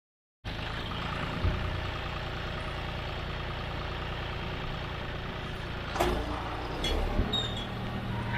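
John Deere 5310 tractor's three-cylinder diesel engine running steadily, with a few sharp knocks, the loudest about six seconds in.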